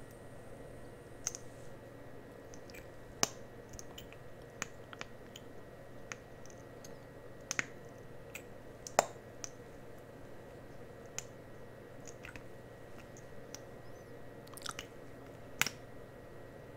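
Irregular small clicks and taps from close-miked ASMR handling sounds, a few sharper than the rest, over a steady faint hiss.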